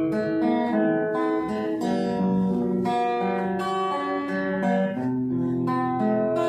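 Acoustic guitar playing an instrumental passage: a steady run of plucked notes and chords.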